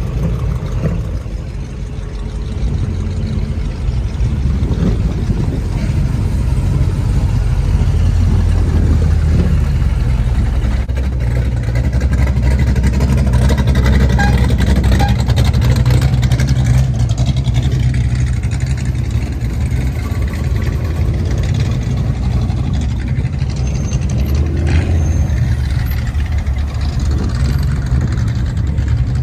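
A car engine running at idle nearby: a loud, steady low rumble that grows a little louder a few seconds in.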